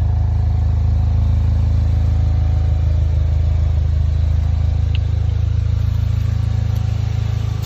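2015 Volkswagen Golf GTI's turbocharged 2.0-litre four-cylinder idling steadily, a low, even drone through its muffler-deleted exhaust.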